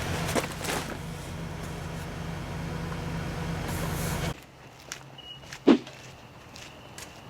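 A vehicle engine running steadily, which cuts off suddenly about four seconds in. Then quieter, with small clicks and a single thump about a second and a half later.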